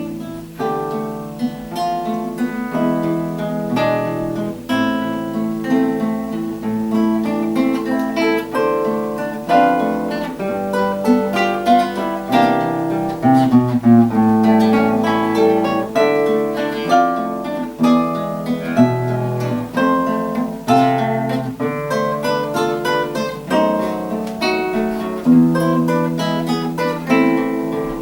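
A duet of two acoustic guitars playing, with a continuous stream of plucked notes.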